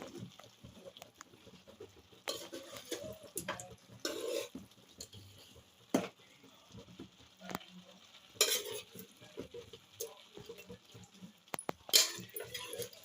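Metal spoon scraping and clinking against a cooking pot as chicken is spooned onto the rice, with a few sharper knocks about six, eight and a half and twelve seconds in.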